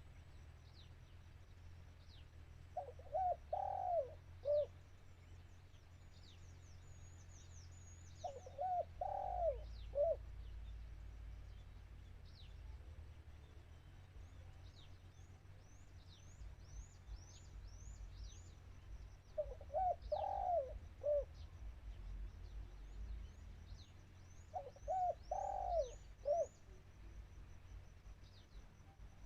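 Spotted dove cooing: four short multi-note coo phrases, spaced several seconds apart. Thin, high, quick chirps of small birds run behind them.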